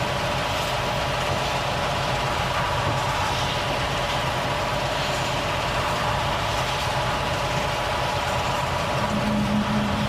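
Volvo FH truck's diesel engine running steadily with a constant drone and no change in pace; a further low steady tone joins near the end.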